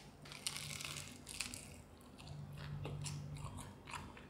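Biting into and chewing a flaky-crusted egg tart: a string of short crunches and crackles as the pastry breaks between the teeth.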